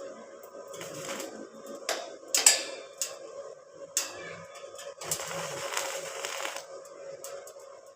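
Metal pieces clinking and knocking, with a few sharp strikes that ring briefly, the loudest about two and a half seconds in, and a longer scraping stretch about five to six and a half seconds in. A faint steady hum runs underneath.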